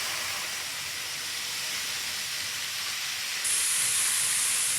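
Model trains running on a layout: a steady hiss, with a higher hiss growing louder about three and a half seconds in.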